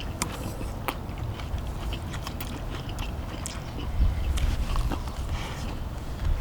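People chewing and eating cheese dak-galbi, with scattered short clicks of utensils.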